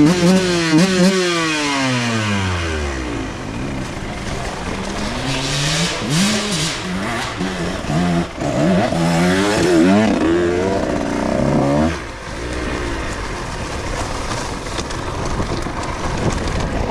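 125cc two-stroke dirt bike engine revving hard and backing off over rough trail: the pitch falls away over the first few seconds, climbs and drops again and again in the middle, then settles into lower, steadier running near the end.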